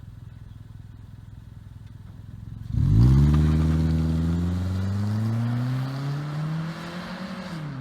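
2013 Toyota Camry SE running with its muffler removed: a low idle rumble, then about three seconds in the engine comes in suddenly and loud under hard acceleration. Its exhaust note climbs steadily in pitch for about four seconds, then falls away near the end.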